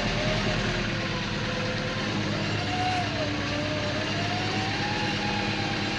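Diesel engine of a JCB 3CX backhoe loader working under load as it drags a stuck tractor free, its pitch rising and falling unevenly.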